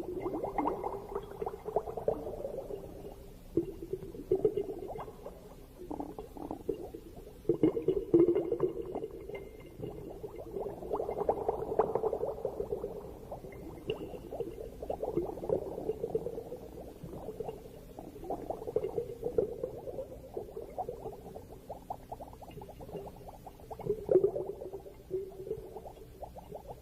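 Underwater gurgling of bubbles, swelling and fading in irregular bursts every few seconds over a low, steady murmur.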